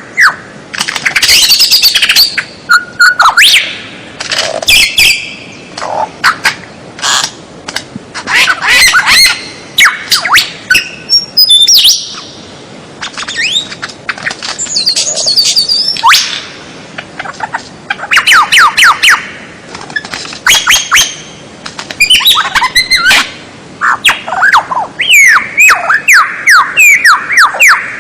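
Recorded songbird song played as a training track: loud, varied phrases of rapid downward-sweeping whistles and harsh chattering notes, in bursts of a second or two with short pauses between.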